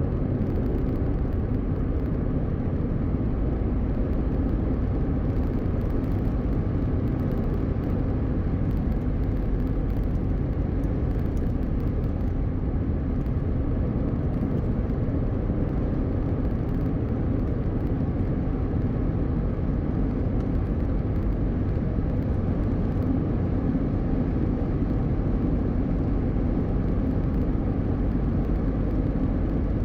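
Car driving steadily at highway speed: an even rumble of tyre and road noise with engine hum, unchanging throughout.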